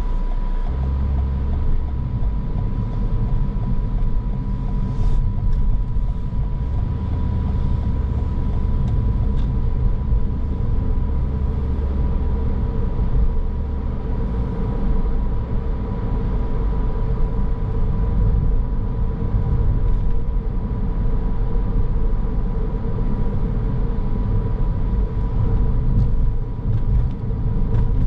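A car's steady driving noise: a low rumble of engine and tyres on the road, with a faint steady whine above it.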